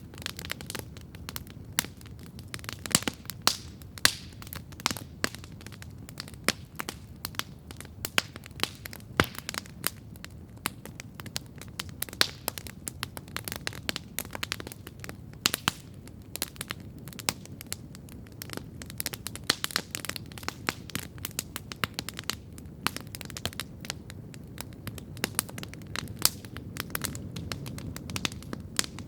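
Wood campfire crackling steadily: irregular sharp pops and snaps, several a second, over a low, even rumble.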